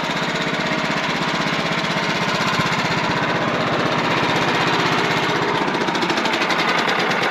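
Wood-Mizer portable sawmill's engine running steadily, with an even, fast pulsing beat.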